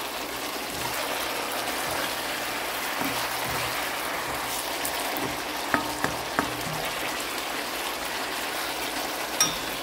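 String beans with tomatoes and onions sizzling steadily in a stainless steel wok as a spatula stirs them. Three quick knocks of the spatula against the pan a little past halfway, and another near the end.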